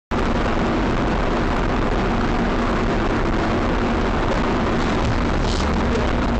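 Steady road and engine noise of a moving car, loud and unbroken, starting abruptly out of silence.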